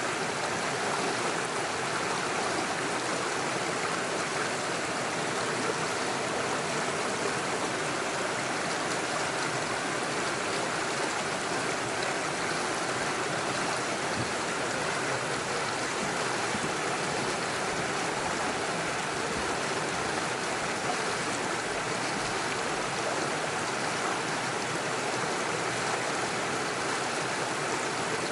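Small forest stream running over rocks and little waterfalls: a steady rush of flowing water.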